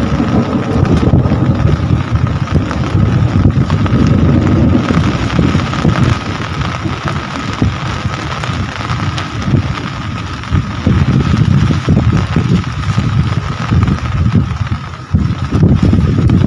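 Heavy rain pouring steadily, with a loud low rumble that swells and fades every few seconds and a thin steady whine underneath.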